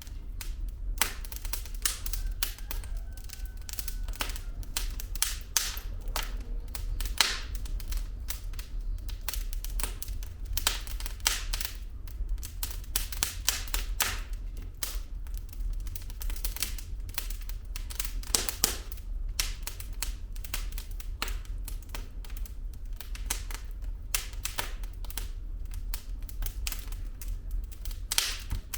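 Firewood burning in a fireplace, crackling and popping in quick, irregular snaps over a low, steady rumble of the flames.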